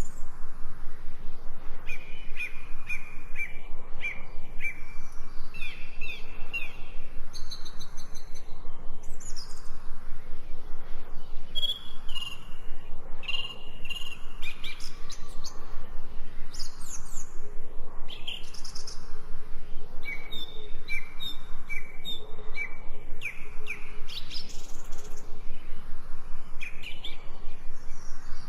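Wild birds singing and calling: short chirps repeated in quick series, several voices overlapping, over a steady background hiss.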